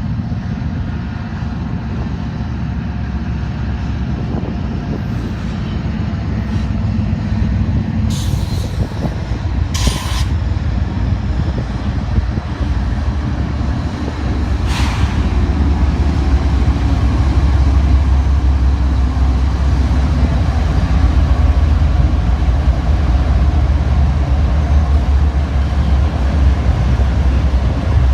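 Diesel locomotive of an intermodal freight train rumbling steadily, growing louder about halfway through as it draws closer. A few short hisses are heard about a third and halfway in.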